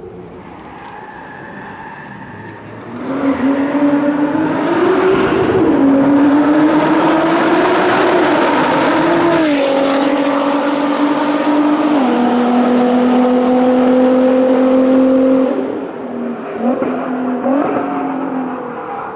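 Nissan GT-R R35's twin-turbo V6 through a straight-pipe exhaust, driven hard. About three seconds in it comes on loud, its pitch climbing and then stepping down at each upshift. Near the end it drops off to quieter, uneven blips.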